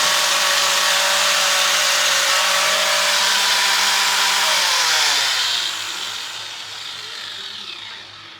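An electric power tool's motor runs at a steady high speed, then is switched off about four and a half seconds in, its whine falling in pitch and fading as it spins down.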